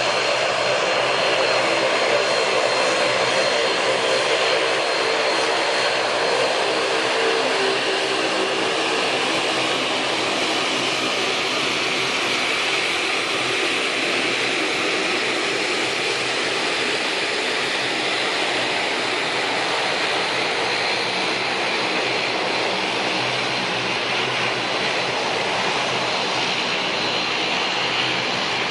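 Jet airliner engines running steadily with a continuous roar and a thin high whine. A deeper hum in the middle of the range is strong for the first several seconds, then fades.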